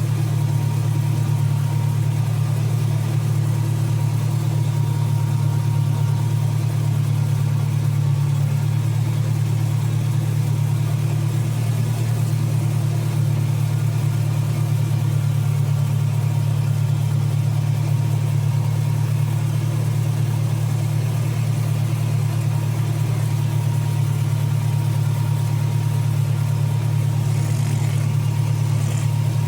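Zoo train's locomotive engine running with a steady, unchanging low drone.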